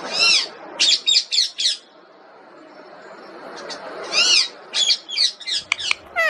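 Pet parrot calling in two bursts of high, shrill squawks. There is one call and then four quick ones in the first two seconds, and another call about four seconds in followed by a rapid run of shorter ones.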